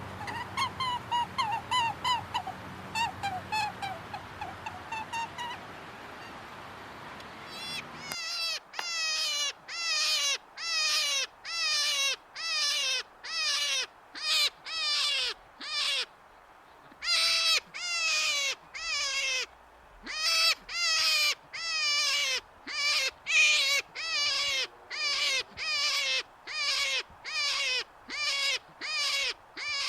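Animal calls. First comes a quick run of short chirping notes, then from about eight seconds in a steady series of short calls, roughly two a second, each falling in pitch.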